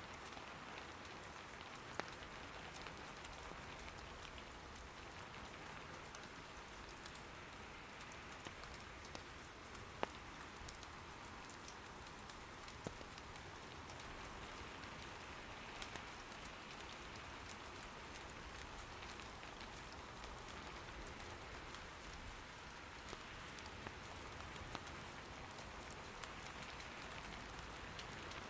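Steady soft rain patter, with a few sharp pops from firewood burning in an irori hearth; the loudest pop comes about ten seconds in.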